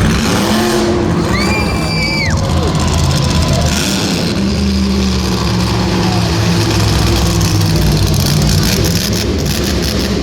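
Monster truck engine running loudly and steadily, with arena music playing over it; a high tone rises and falls early on.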